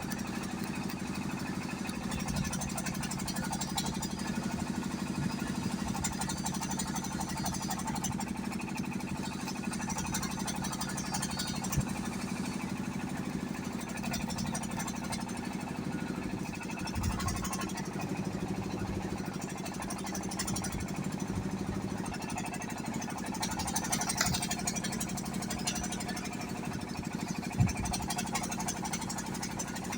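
An engine running steadily at an even speed, with a few short knocks over it.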